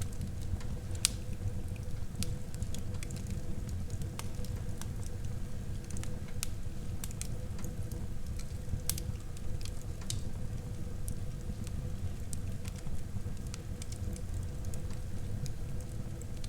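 Wood fire burning in a fireplace: scattered sharp crackles and pops over the steady low rumble of the flames, with one louder pop about a second in.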